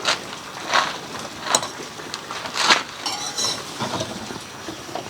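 Dishes and serving utensils clinking and scraping as breakfast is served, with about five sharp clinks among softer scrapes.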